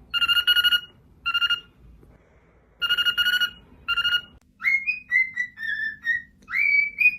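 A telephone-style ringing at a steady pitch with a fast trill, in four short bursts, followed from about four and a half seconds in by a run of short whistled notes that slide up and down.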